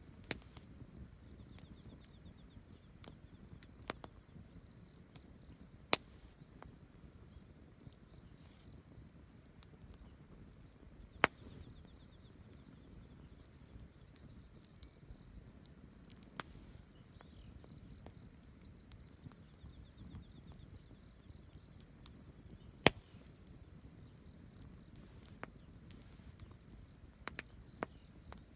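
Wood campfire burning with a low steady hiss, broken by scattered sharp crackles and a few loud pops from the burning wood.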